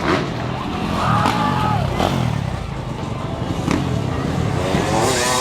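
Motocross motorcycle engines running and revving, shifting in pitch, with a few sharp knocks and voices mixed in.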